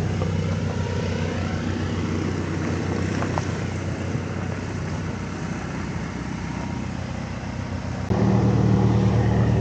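A vehicle engine running steadily, growing louder in a step about eight seconds in.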